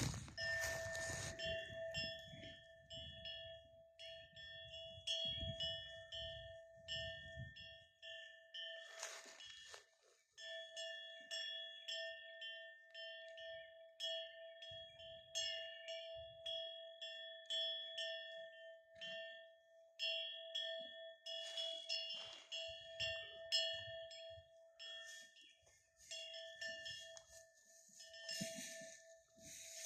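A livestock bell worn by a grazing animal, ringing again and again at about two strikes a second, its tone carrying on between strikes.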